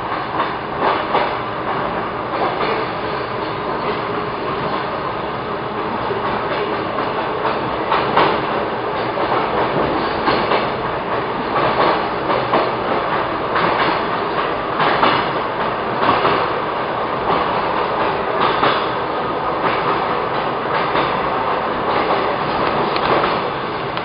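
Electric commuter train running, heard from inside the carriage: a steady rolling rumble with the wheels clicking over rail joints now and then.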